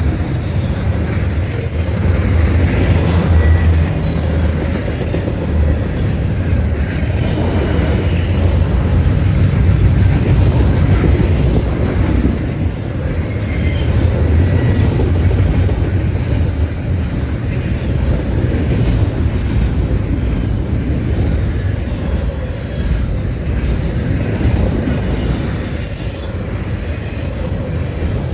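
Train cars rolling past on steel rails: a steady loud rumble, with faint high wheel squeals.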